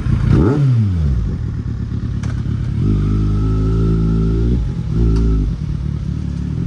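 Kawasaki Z800 inline-four motorcycle engine revving, its pitch falling back about half a second in, then held steady under throttle for a couple of seconds from about three seconds in, dropping, and rising again briefly around five seconds as the bike pulls away.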